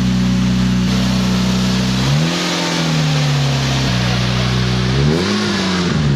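Small four-cylinder car engine, the 1.6-litre in a 1985 Toyota Corolla, running steadily and revved twice: a longer rev about two seconds in and a shorter one about five seconds in. Each rev rises in pitch, holds briefly and drops back.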